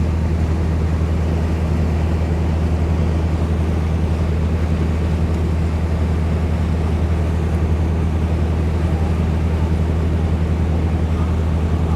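A motor yacht's engine running steadily while cruising: an even low hum with a rush of water and wind over it.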